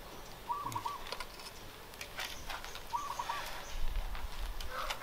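A bird giving a short pitched call twice, about two and a half seconds apart, with faint scattered clicks.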